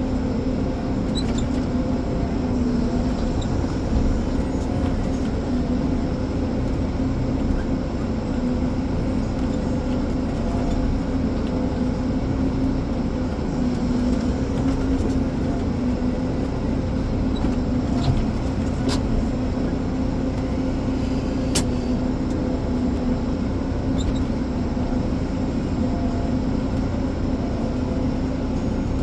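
Ponsse Elephant forwarder's diesel engine running steadily under load with an even hum, and a few sharp clicks or knocks about two-thirds of the way through.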